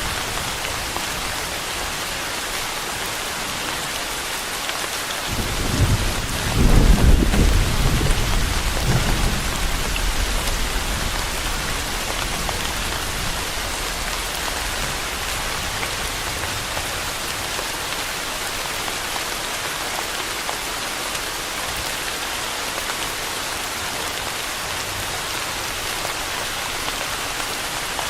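Steady rain falling, with one roll of thunder that starts about five seconds in, peaks a couple of seconds later and rumbles away over a few seconds.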